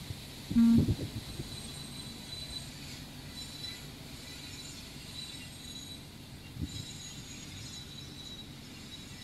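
Indian Railways passenger train of blue coaches rolling past, a steady low rumble of wheels on the track. A brief loud tone and thump stands out about half a second in.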